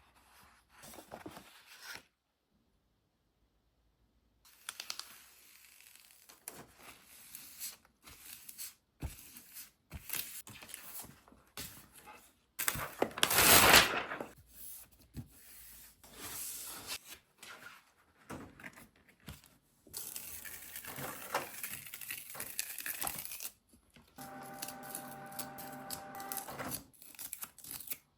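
A string of small handling sounds: short clicks, taps and rustling, with one louder rustle about 13 seconds in. Near the end a steady humming tone runs for about three seconds.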